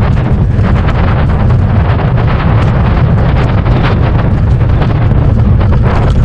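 Wind buffeting an action camera's microphone: a loud, unbroken rumble with rapid crackling thumps.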